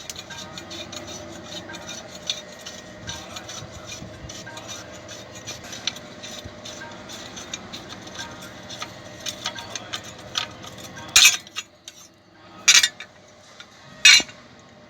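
Rapid metallic clicking and rattling of hand tools working loose the exhaust silencer bolts under a car, then three short, loud, hissing bursts near the end.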